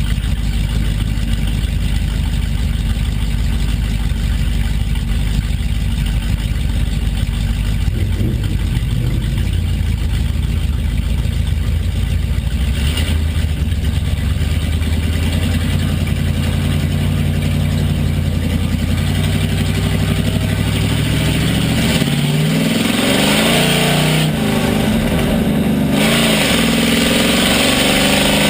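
Pure stock race car's engine heard from inside the car, running at a low, steady pace at first. From about two-thirds of the way in it is revved harder and louder, its pitch rising and falling as the car accelerates and lifts.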